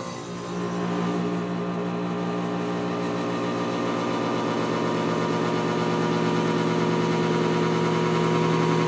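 Air conditioner unit's fan starting up and running with a loud, steady mechanical hum and whir that slowly grows louder. The owner traces the unit's horrible noise to the fan rather than the cooling side.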